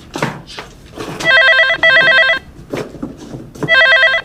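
Telephone ringing with a fast electronic trill: a double ring about a second in, and another ring starting near the end. A few short knocks fall between the rings.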